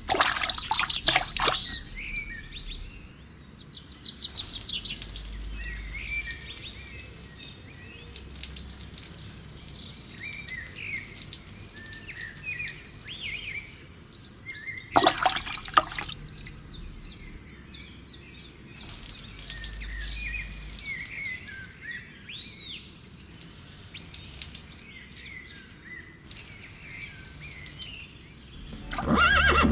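Birds chirping and twittering in a steady outdoor ambience, with two loud sweeping splash-like sounds, one at the start and one about halfway through.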